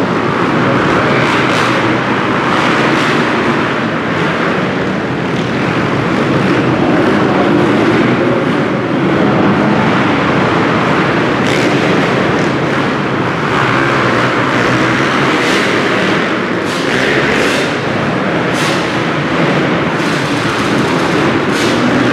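Motocross bike engines running hard, their pitch rising and falling as they rev and ease off.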